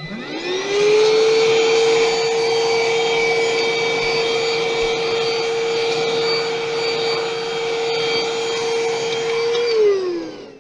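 A small electric motor spins up quickly, then runs at a steady high whine over a rush of air. Near the end it winds down, falling in pitch as it stops.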